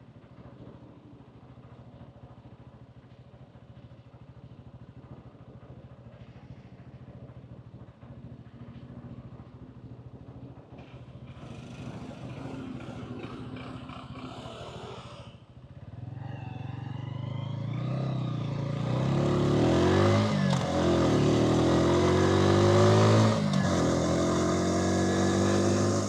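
Hansom Bike Venett 125cc motorcycle engine running low and steady, then accelerating hard from about 16 s in, its pitch climbing as wind noise builds; a brief dip and rise near the end, like a shift or throttle change.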